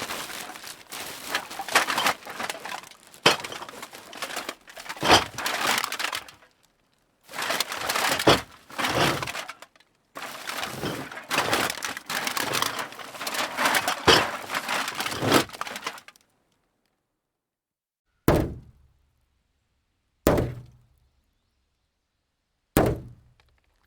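Metal cans clattering as they are dropped into a bag, in busy bursts with brief pauses, for about sixteen seconds. After a short silence come three separate heavy car impacts, a couple of seconds apart, each dying away.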